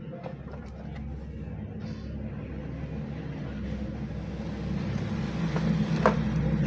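A low, steady engine rumble that grows louder toward the end, with one sharp click about six seconds in.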